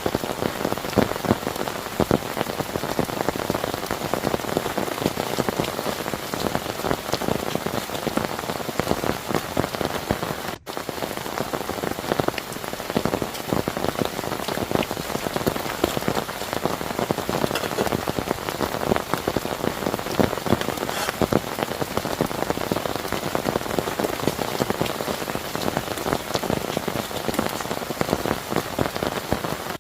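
Heavy rain falling steadily, with a dense patter of individual drops striking a surface close by. There is a split-second dropout about ten seconds in.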